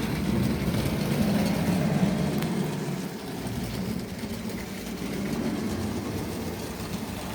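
Tri-ang OO-gauge model train running along the track: the locomotive's electric motor hums steadily over a rumbling rattle of wheels on the rails, a little quieter after about three seconds.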